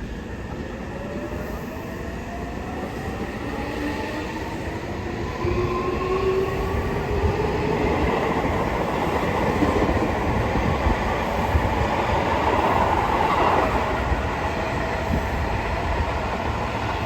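Seibu 6000 series electric train pulling away from a station. The traction motors give a whine that rises in pitch as it accelerates, over wheel and rail noise that grows louder and peaks about two-thirds of the way through.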